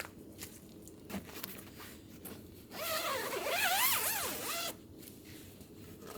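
A zipper being pulled in one long run of about two seconds, starting about three seconds in, its buzzing pitch wavering up and down as the pull speeds and slows. Light rustling and small clicks come before it.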